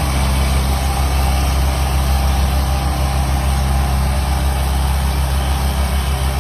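Heavy truck engine idling steadily with a deep low rumble.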